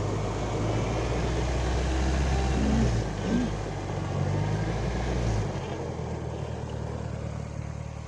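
Homemade mini tractor's engine running while clearing snow, its pitch shifting briefly around three seconds in; the low engine hum drops off sharply about five seconds in.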